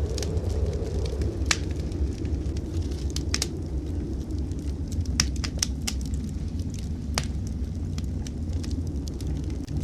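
Wood fire crackling in a fireplace, with a dozen or so sharp pops scattered irregularly, the loudest about a second and a half in and about seven seconds in, over a steady low rumble of blizzard wind.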